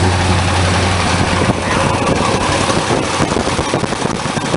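Plymouth Road Runner's 426 HEMI V8 idling with its solid lifters clattering in a rapid, dense tick. A low steady hum under it stops about a second and a half in.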